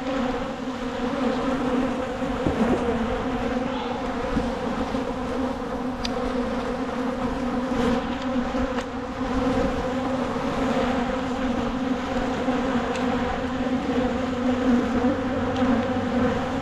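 Honeybees buzzing in a steady, continuous hum around an opened hive, from a colony stirred up and defensive after being disturbed by the inspection.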